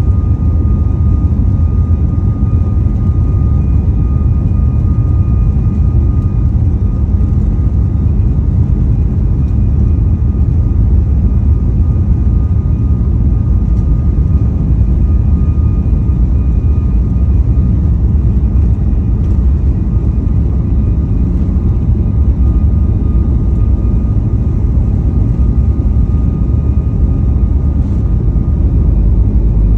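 Boeing 737 MAX 8's CFM LEAP-1B jet engines running at high power, heard inside the cabin as a loud, steady low rumble with a thin steady whine above it.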